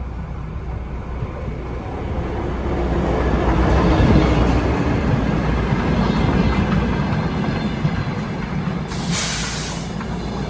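Passenger train running on the rails, heard from inside a carriage: a steady low rumble that swells about four seconds in and then eases off, with a brief hiss near the end.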